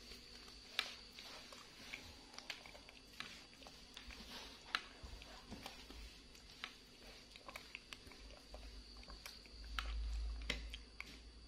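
Young monkey eating yogurt with a plastic spoon: scattered light clicks of the spoon against its teeth and the plastic cup, with soft chewing. A faint steady high whine runs underneath, and a low rumble comes about ten seconds in.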